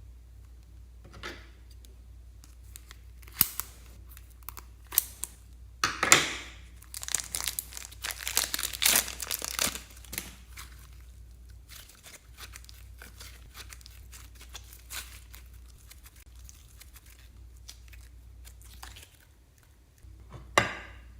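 Crinkling, crackling and tearing handling sounds from slime and plastic piping bags: a few sharp clicks, a dense crackle from about six to ten seconds in, softer crackle after, and one sharp crackle near the end.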